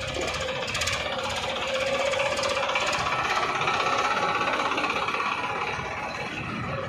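Tractor engine running steadily with a rattly knock, a little louder in the middle.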